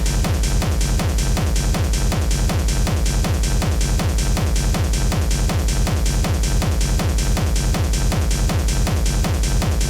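Techno music with a steady kick drum on every beat, heavy in the bass, and dense percussion and synth sounds above it, running without a break.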